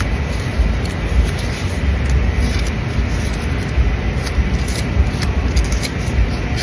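Wind buffeting the microphone: a loud, unsteady low rumble under a steady rushing noise, with a few small crackles.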